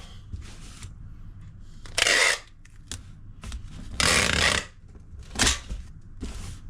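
Packing tape being pulled off a roll in short rasping strips, three or four times, as it is stuck over cardboard boxes.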